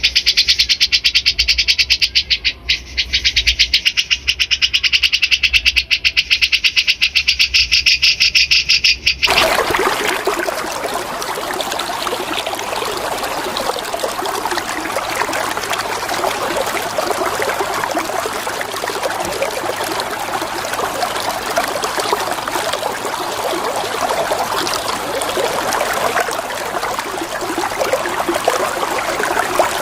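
A songbird (a bulbul) sings a rapid, evenly repeated high trill of quick notes. About nine seconds in, the song cuts off abruptly to the steady rush of flowing water.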